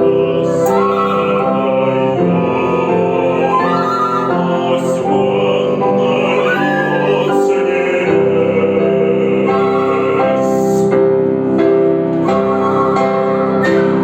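Woodwind trio of flute, oboe and bassoon playing held notes in chords that shift every second or so, an instrumental passage of a chamber cantata.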